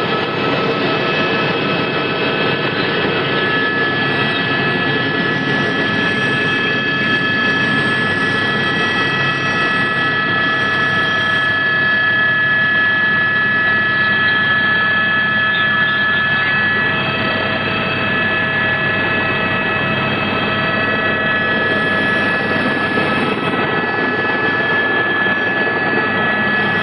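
Helicopter running steadily, a continuous engine rush with a high turbine whine made of several steady tones.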